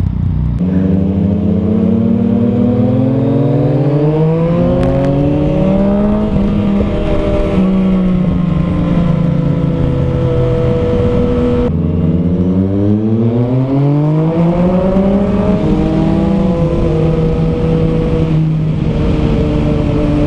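Yamaha FZ-09 inline-three with an aftermarket exhaust accelerating under load, its pitch climbing and dropping back at each upshift. It pulls up through the gears twice, then settles into a steady cruise near the end.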